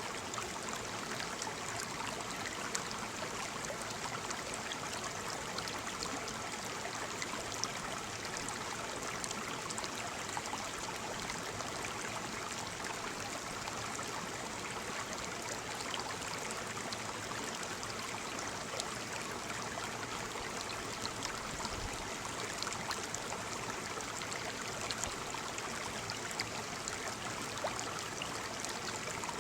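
Waterfall: water falling and splashing in a steady, unbroken rush, flecked with small splashes.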